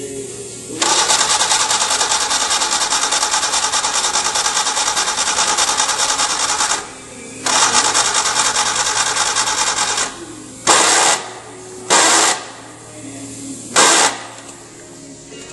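Honda Civic CVCC engine being cranked by its starter without catching: a long crank of about six seconds, a second crank of about two and a half seconds, then three short bursts. The engine is getting no spark, since the distributor points are worn out.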